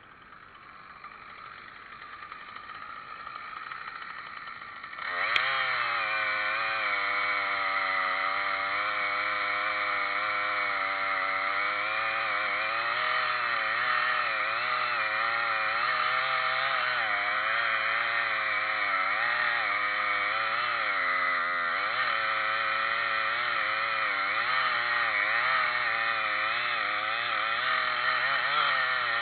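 Chainsaw running at speed. After a quieter stretch it comes in loudly about five seconds in, and its pitch keeps wavering up and down as it works.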